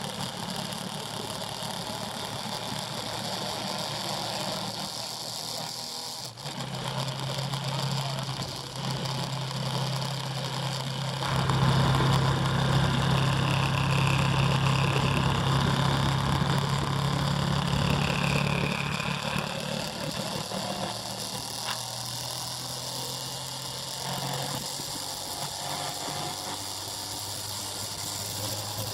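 Motorbike engine running at a steady speed, growing louder from about a third of the way in and easing off again after the middle.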